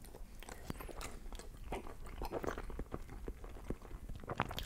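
A person biting into and chewing a forkful of cheesy baked lasagna roll, a run of many small mouth clicks.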